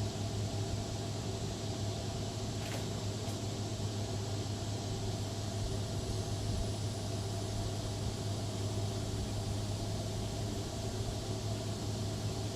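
Lawn mower engine running steadily at an even speed, with a steady high hiss above it.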